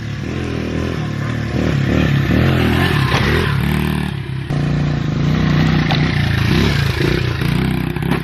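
Honda 70 pit bike's small four-stroke single-cylinder engine being ridden hard, its pitch revving up and down again and again as the rider works the throttle.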